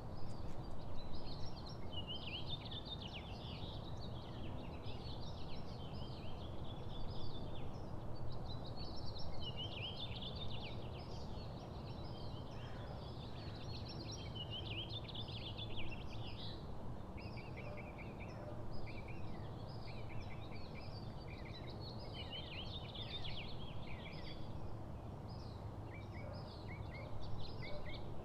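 Several songbirds chirping and calling over and over, with quick runs of short chirps, over a steady low background rumble.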